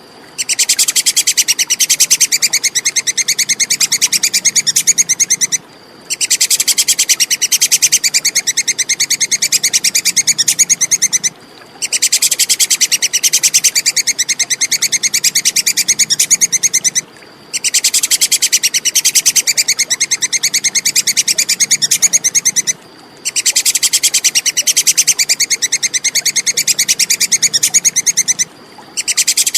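Tupai kekes squirrel chattering: a fast, high rattle of sharp clicks in bouts of about five seconds, each broken by a half-second pause, the same bout repeating over and over.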